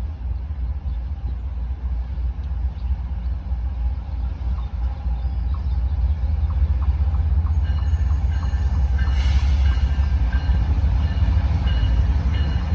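Union Pacific intermodal freight train rolling by with a steady low rumble that grows louder. A light run of ticks comes through near the middle, and a faint high whine joins about two-thirds of the way through.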